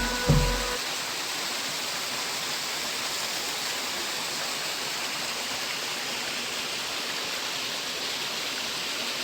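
Waterfall rushing: a steady, even roar of falling water, after a beat of background music cuts off under a second in.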